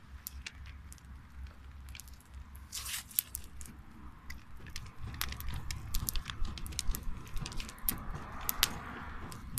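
Wood campfire crackling: irregular sharp pops and snaps, over a steady low rumble.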